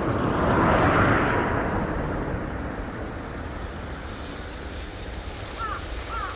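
Freight train hauled by an EF65 electric locomotive passing: a rushing noise that swells to its loudest about a second in, then eases off to a steadier run. A bird calls several times in quick succession near the end.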